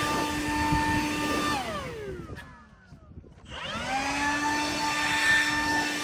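A power tool's electric motor running with a steady whine, switched off about two seconds in so it winds down in pitch to a stop, then switched back on about a second later and spinning back up to full speed.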